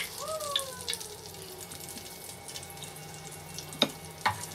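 Chicken pieces frying in shallow oil in a pan: a soft sizzle with scattered crackles. Near the end come two sharp metal clinks, half a second apart, from the slotted spoon lifting the pieces out.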